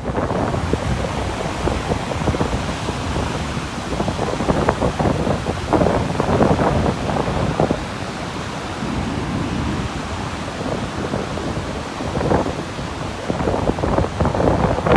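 Sea waves washing onto a beach, with wind buffeting the microphone: a steady rushing noise that swells louder a few times.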